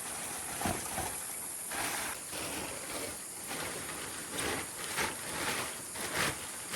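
Water splashing in about seven irregular short bursts over a steady background hiss.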